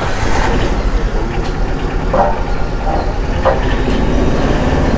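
Heavy road traffic going past: a steady, loud low rumble of a large vehicle, with two brief mid-pitched sounds about two and three and a half seconds in.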